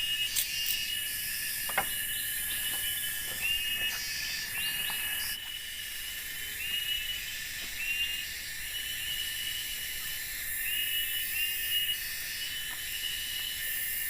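Night insect chorus: a steady high trill with layers of shrill buzzing above it, and a repeated short chirp about twice a second that drops away for a few seconds mid-way and then returns. A few faint clicks.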